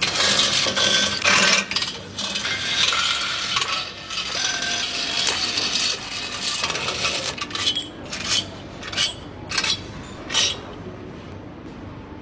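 Metal engine parts and tools clinking and clattering during hand assembly of a V8 engine, some strikes ringing briefly. In the second half the clatter gives way to about six separate sharp metallic clinks at uneven spacing.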